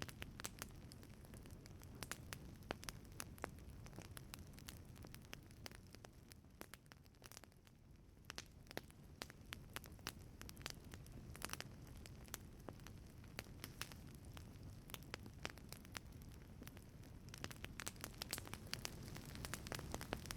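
Wood fire burning in a wood-fired pizza oven, crackling with frequent sharp pops and snaps over a low, steady rumble of flame. The crackles thin out briefly about seven seconds in and come thicker near the end.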